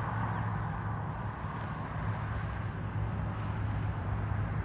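Steady low hum of a motor vehicle's engine running, over a haze of outdoor road noise.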